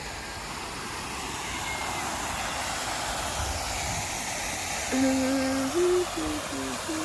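Steady rushing splash of a park water fountain, with a person humming a few held notes of a tune from about five seconds in.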